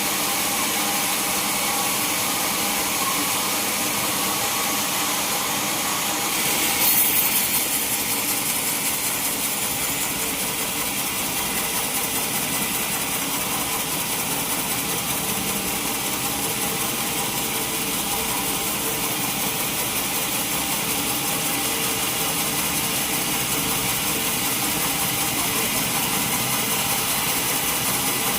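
Sawmill saw cutting a mahogany log: steady machine running with a hissing cut that stays even throughout, briefly louder and sharper about seven seconds in.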